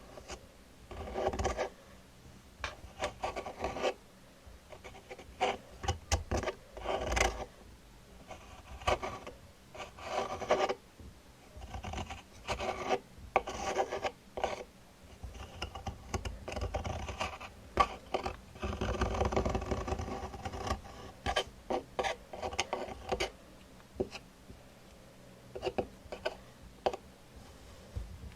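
ASMR trigger sounds: irregular rubbing and scratching strokes on a surface, some short, some drawn out for a second or two, with brief pauses between them.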